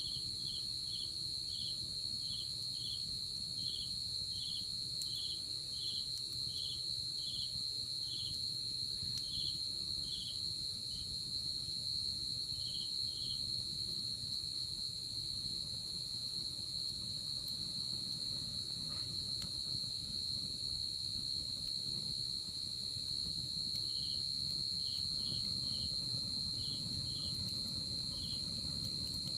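Night insect chorus: a steady, unbroken high-pitched trill, with a second insect chirping about twice a second over it that stops around the middle and starts again near the end.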